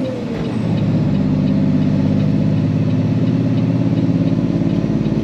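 A Peterbilt semi truck's diesel engine running as a steady low drone. The drone dips briefly in the first second, then runs steady again.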